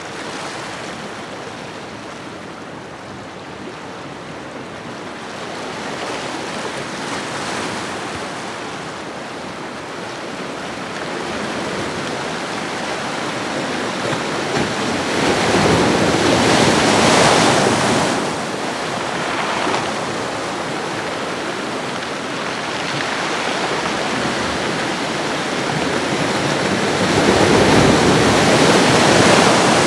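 Ocean waves washing onto a shoreline: a continuous rush of surf that swells into a louder breaking wave about halfway through and again near the end.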